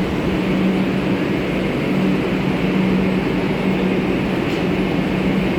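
Steady hum of a metro train standing at the platform: a constant low drone under an even rush of noise.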